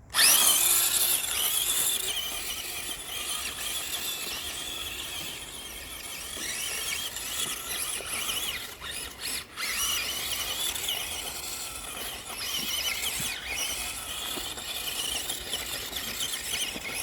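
Electric motor and gearbox of a Spin Master Grave Digger tracked RC truck whining high-pitched as it drives, the pitch wavering up and down with the throttle. It is loudest in the first two seconds.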